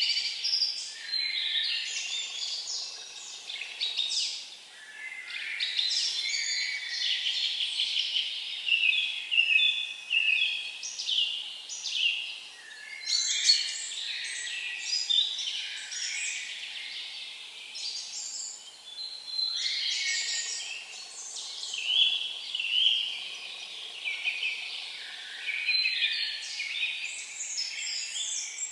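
Songbirds singing, one quick trilling phrase after another with hardly a pause.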